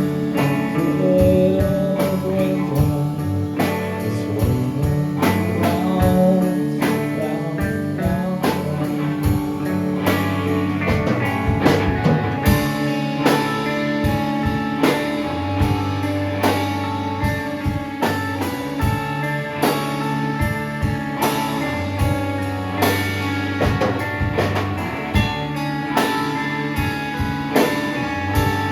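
A live rock band playing: guitars over a drum kit keeping a steady beat.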